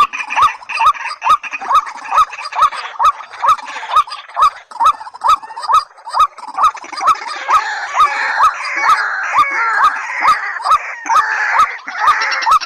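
Recorded calls of white-breasted waterhens and watercocks: a fast, even series of short hooked call notes, about two to three a second, each with a sharp click, over a busy background of further calling.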